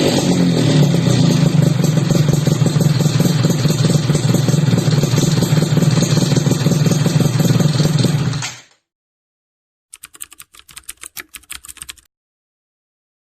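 Yamaha F1ZR two-stroke single-cylinder engine through an RTX racing exhaust, held at high revs after revving up, then cutting off suddenly about eight and a half seconds in. A couple of seconds of rapid faint clicking follow.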